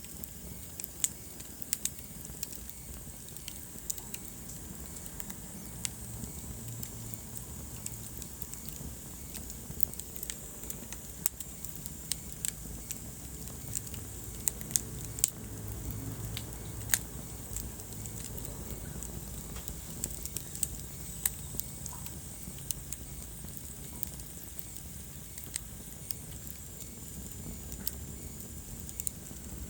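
Wood fire crackling in a fireplace: irregular sharp pops and snaps over a low, steady rumble of burning logs.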